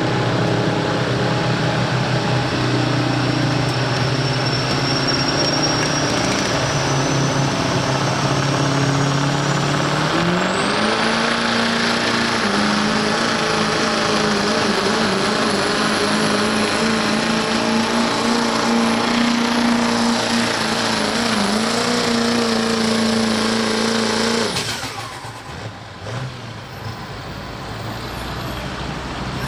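Turbocharged diesel pickup engine under full load pulling a sled, its turbo whistling. The whistle rises in pitch over the first ten seconds, then the engine pitch steps up and holds steady. About 24 seconds in, the engine abruptly lets off and drops back as the pull ends.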